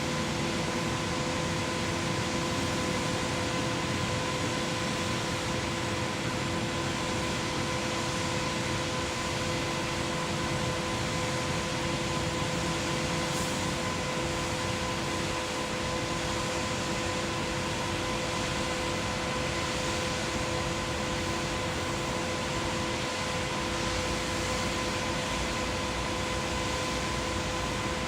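A machine running steadily: an even mechanical noise with a constant hum, unchanging throughout.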